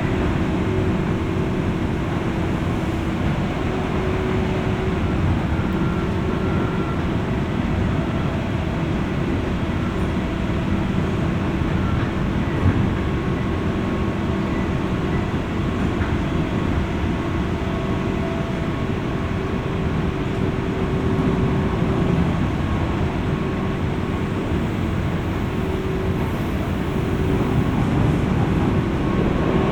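Running noise inside a JR West 201 series electric train's motor car at speed, recorded over its armature chopper equipment: a steady rumble of wheels on the rails with faint steady humming tones.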